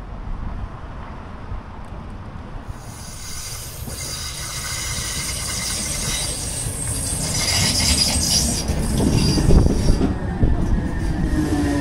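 Irish Rail DART electric train arriving at a station platform: a rush of wheels on rail with a high squeal that grows louder as it approaches, loudest as the carriages pass about ten seconds in, then a falling whine near the end as it slows.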